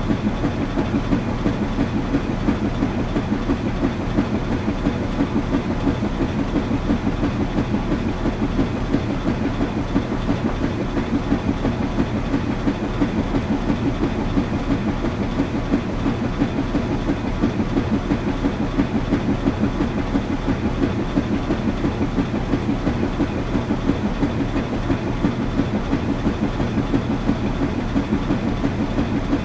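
Washing machine running steadily: a continuous low hum and rumble with a quick, even pulse.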